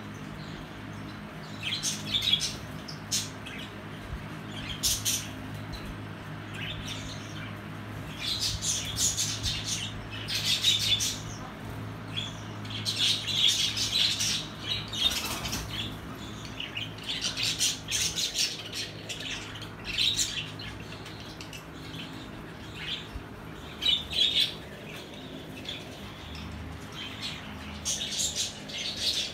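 Pet lovebirds chirping and squawking in repeated bursts of shrill, high calls, over a steady low hum.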